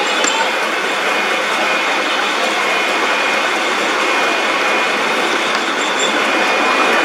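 Metal lathe running and cutting iron: a steady, even machining noise with faint thin high whining tones over it.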